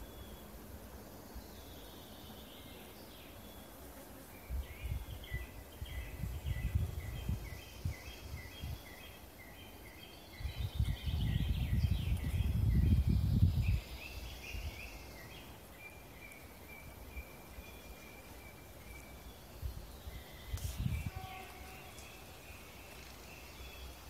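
A songbird singing in a forest: a long run of quick, evenly repeated high notes, with a shorter song near the end. Low rumbling gusts on the microphone come and go, loudest in the middle.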